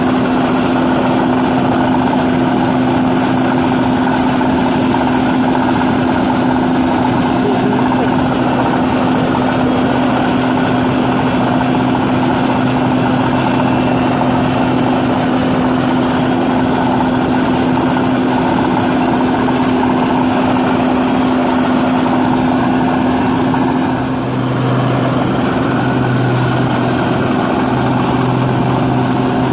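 New Holland 8060 combine harvester running steadily, its engine and machinery making a constant drone with a steady hum. About 24 seconds in, the sound dips briefly and a lower hum comes in, pulsing on and off.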